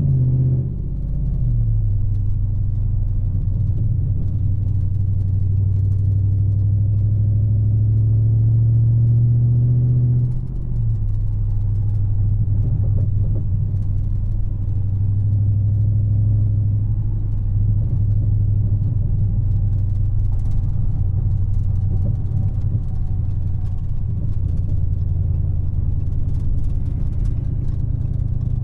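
Dodge Charger Scat Pack's 392 HEMI V8 engine running while cruising, a steady low drone that climbs slowly in pitch, dips suddenly in pitch and level about ten seconds in, then holds steady.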